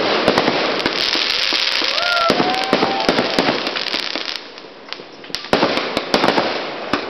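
Aerial fireworks going off in quick succession: sharp bangs and crackling over a steady hiss, with short whistling tones about two seconds in. The bursts die down briefly past the middle, then come thick and fast again.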